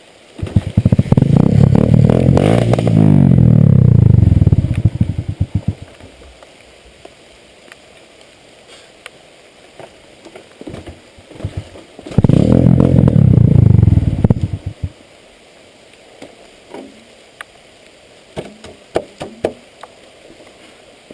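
Motorcycle engines running loud and hard in two stretches: one starting about half a second in and lasting some four to five seconds, its pitch dropping as it backs off, and another from about twelve seconds in lasting nearly three seconds. In between it is much quieter, with scattered clicks and knocks.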